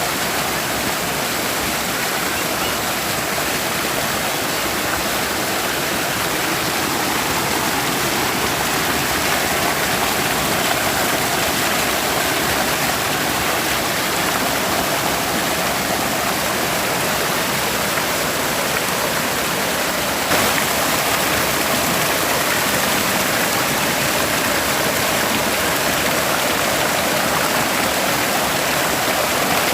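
Forest stream flowing and splashing over rocks: a steady, dense rush of water.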